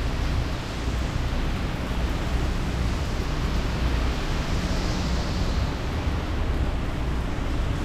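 Hurricane Ian's wind blowing hard, buffeting the microphone with a rough low rumble under a steady hiss; a brighter hiss swells about five seconds in.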